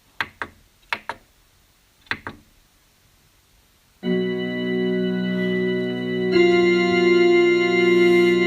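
Electronic keyboard music: three pairs of short, sharp note stabs, then a sustained organ-like synth chord comes in about four seconds in, with more notes layered on a couple of seconds later.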